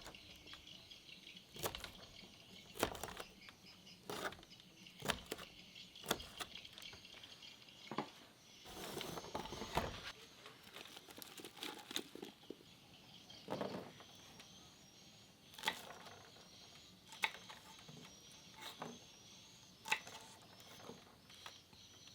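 Irregular sharp taps or knocks, one every second or two, over a steady high chirping in the background.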